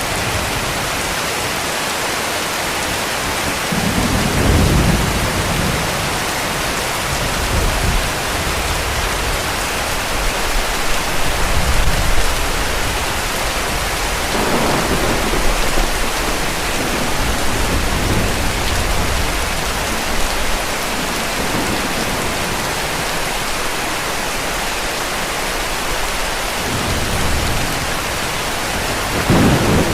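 Steady heavy rain, with several low rumbles of distant thunder rolling through, the first about four seconds in and the last near the end.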